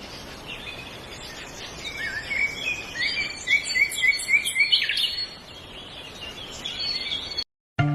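Birds chirping and singing, with many short high notes over a steady background hiss and a run of about five quick repeated notes near the middle. The sound cuts off suddenly shortly before the end.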